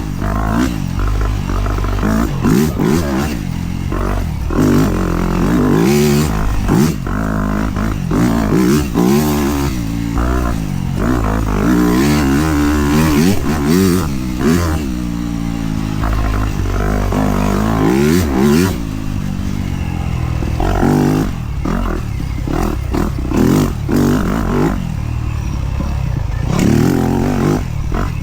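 Dirt bike engine under a rider, revving up and down over and over as the throttle opens and closes, with sharp knocks and rattles from the bike over rough track.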